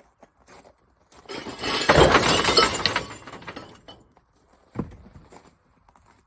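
Rubbish crashing into a skip, with breaking and clattering debris for about two seconds. A single thump follows a couple of seconds later.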